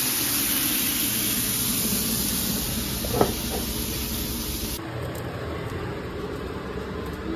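Burger patties sizzling in a hot pan, a steady hiss, with a single sharp knock about three seconds in. The sizzle carries on a little quieter after about five seconds.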